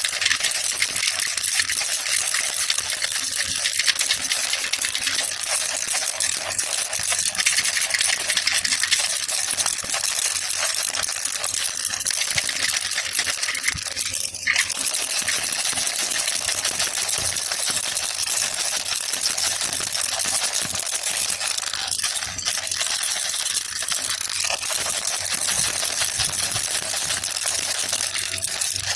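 Baby rattle (jhunjhuna) shaken continuously, its small beads or pellets making a dense, bright rattle, with a brief break about halfway through.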